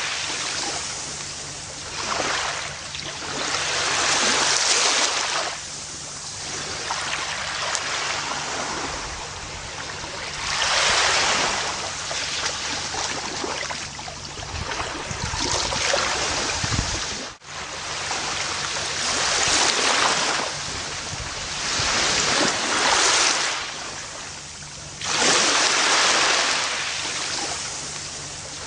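Ocean waves breaking and washing up a beach, swelling and easing every few seconds, with one momentary drop-out a little past the middle.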